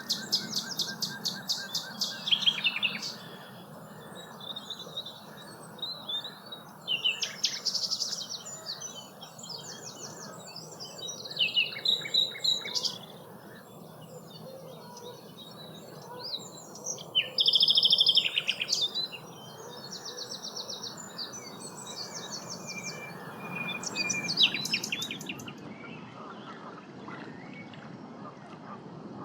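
Common nightingale singing: separate phrases of fast repeated notes and trills with short pauses between them. The song stops near the end.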